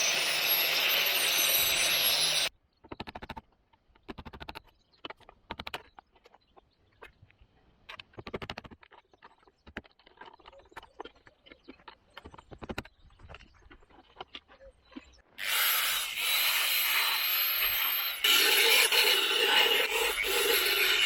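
A power tool working rusted car body metal, running hard for about two and a half seconds, then again from about fifteen seconds in to the end. Between the runs come quiet scraping and tapping as the area is cleaned and prepared for a welded patch.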